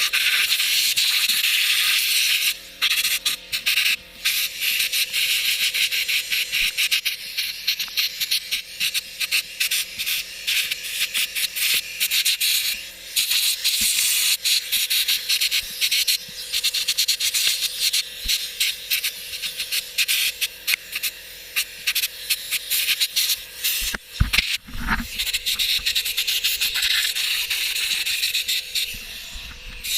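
Loud hiss of a cleaning spray jet blasting caked dirt off a backhoe. It cuts out briefly many times as the jet is stopped and moved.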